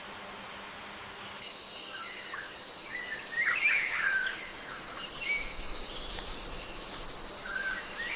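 Rainforest ambience: birds giving short chirping calls in two clusters, a few seconds in and again near the end, over a steady high insect drone.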